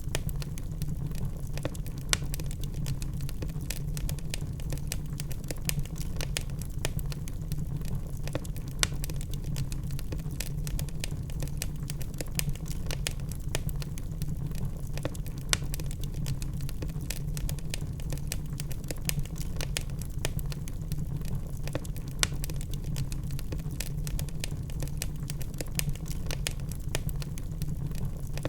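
Wood fire burning in a fireplace: a steady low rumble of flame with dense, irregular crackles and snaps from the logs.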